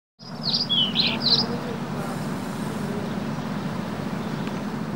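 A small bird chirps a quick run of four or five sweeping high notes in the first second and a half, over a steady low outdoor background hum.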